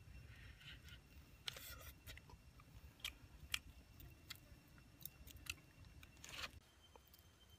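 A person biting and chewing grilled catfish: quiet mouth and crunching sounds with scattered sharp crackles and clicks, and a short rustle near the end as the fish is handled on its bamboo grill.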